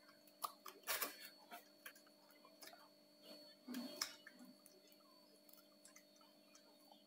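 Chewing of crunchy roast pork skin close to the microphone: scattered sharp crackles and crunches, loudest about a second in and again near four seconds, over a faint steady hum.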